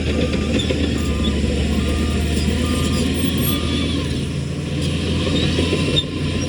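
Heavy diesel earthmoving machine running steadily while its reversing alarm beeps, about one beep every 0.8 s, stopping a little past halfway.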